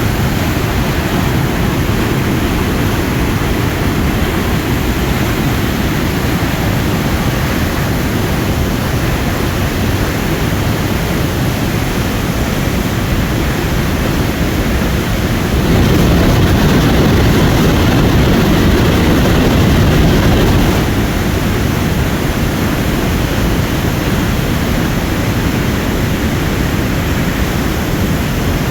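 Steady road and wind noise of a vehicle driving at speed, a loud even rush with no engine note standing out, swelling louder for about five seconds past the middle.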